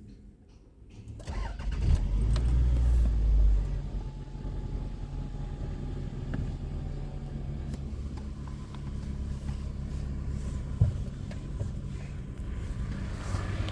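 Toyota Estima's 2AZ-FE 2.4-litre four-cylinder petrol engine starting about a second in. It runs at a high fast idle for a couple of seconds, then settles into a steady idle.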